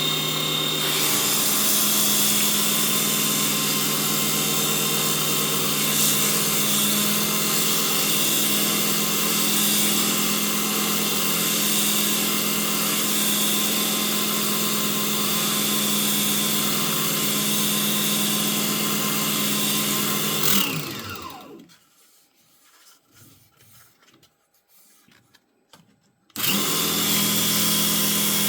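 Small benchtop wood lathe running steadily with sandpaper held to the spinning wooden cone: a steady motor whir with a hiss of sanding. About twenty seconds in the motor is switched off and winds down in pitch to a stop, and after a few quiet seconds it starts again abruptly near the end.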